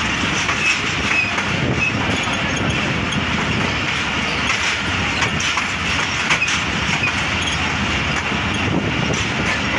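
Passenger train coach rolling along a station platform as it arrives, heard from its open doorway: a steady rumble and rattle with faint clicks of the wheels.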